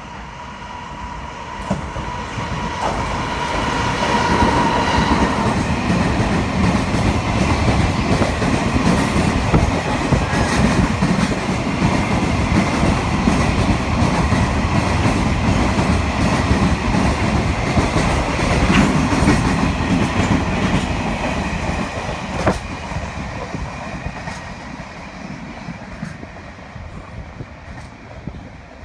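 Freight train passing on the rails. The rumble of wagon wheels builds over the first few seconds, stays loud for most of the passage with occasional sharp clicks of wheels over rail joints, then fades away near the end.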